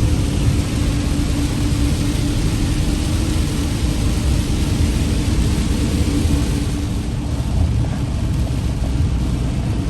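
Steady engine and road noise of an RV driving on a rain-wet road, heard from inside the cab, with a steady hum that fades out about seven seconds in.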